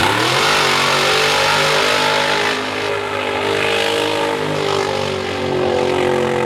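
Mud truck's 622 cubic-inch big-block Chevrolet V8 revving up sharply as it launches into the mud pit, then held at high revs with small dips as it pulls through.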